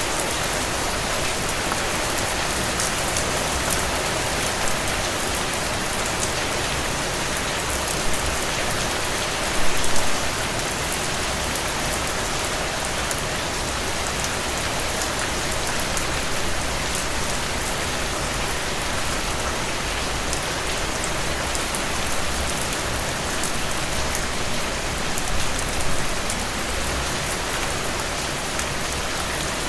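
Steady rain falling on a surface, an even hiss with fine drop patter and a few brief louder splashes about 8 and 10 seconds in and again near 25 seconds.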